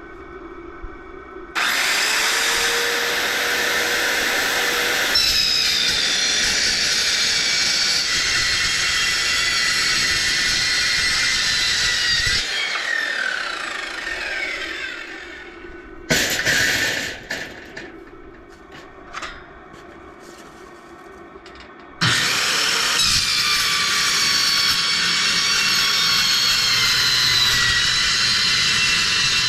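A high-speed power tool with an abrasive wheel cutting steel plate, running hard for about ten seconds, then winding down with falling pitch. After a short burst and a quieter pause it starts again about two-thirds of the way through and keeps cutting.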